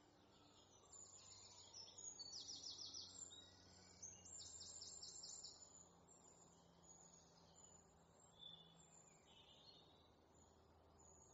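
Faint evening outdoor ambience: a small bird sings rapid, high trills in two bursts during the first half, with scattered fainter chirps later, over a low steady hum.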